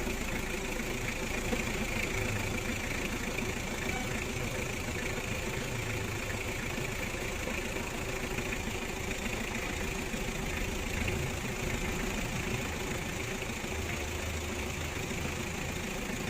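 Car engine idling steadily with the air conditioning running, its A/C compressor just topped up with oil during refrigerant charging.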